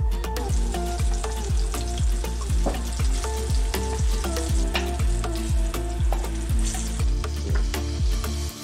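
Chicken meatballs sizzling as they fry in oil in a wok, with a steady hiss. Background music with a steady beat plays along.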